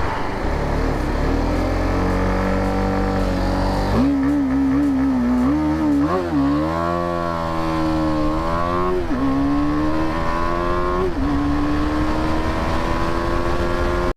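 BMW G 310 R's single-cylinder engine under full-throttle acceleration from a launch, its note climbing in pitch through the gears and dipping briefly at each of several upshifts.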